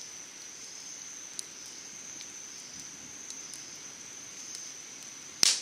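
An insect trilling in one steady, high-pitched tone, with a few faint crackles from a wood campfire and one sharp, louder crack near the end.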